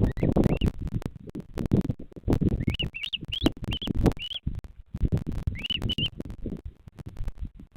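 Wind buffeting the microphone in gusts, with a bird's short rising chirps in two quick series, about five notes and then three.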